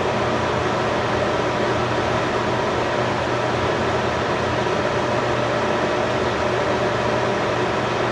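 Steady mechanical hum over an even hiss, holding unchanged with no breaks.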